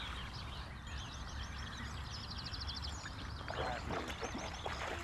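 Songbirds singing outdoors, with a rapid high trill heard twice, over a steady low rumble.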